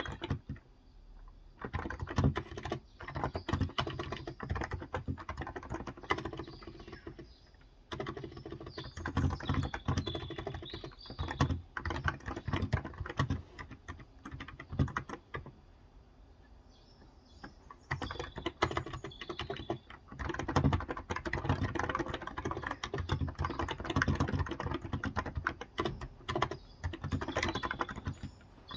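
Typing on a COX Endeavor electro-capacitive (Topre-style) 35 g tenkeyless keyboard: quick runs of keystrokes in bursts, broken by short pauses, the longest lasting about three seconds midway.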